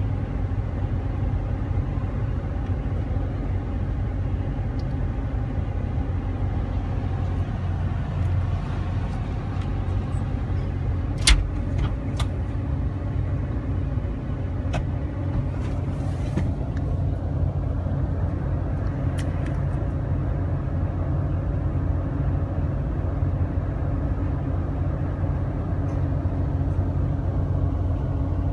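Car engine idling steadily, heard from inside the cabin, with one sharp click about eleven seconds in.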